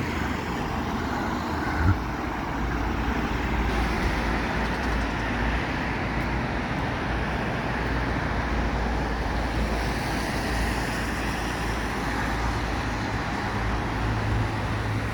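Steady road traffic noise, a continuous wash of passing vehicles with a low rumble underneath. A short knock comes about two seconds in.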